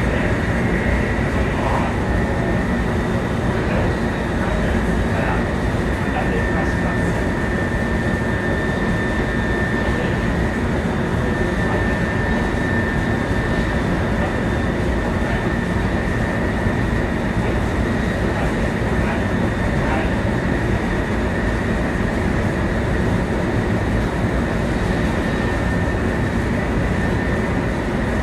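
Running sound of a 700 series Shinkansen heard from inside the car at steady speed: a constant rumble of wheels on rail with a steady high whine from the traction motors.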